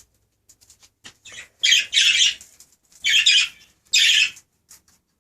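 Budgerigars squawking: three loud, harsh calls about two seconds, three seconds and four seconds in, with faint chirps and clicks between. These are contact calls to the budgies left inside the house.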